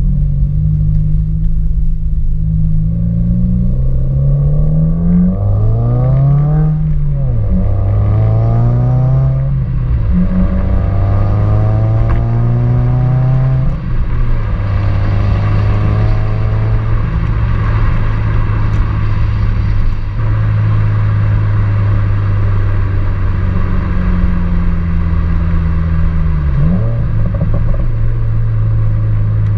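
The 2019 Subaru WRX's turbocharged flat-four running through an Invidia R400 catback exhaust with the intermediate resonator deleted. The note climbs in pitch several times in the first half, each climb cut off briefly like a gear change. It then settles into a steady low drone, with one short rise and fall near the end.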